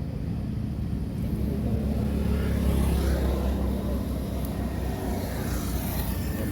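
Low, steady rumble of a motor vehicle engine running, swelling a little in the middle.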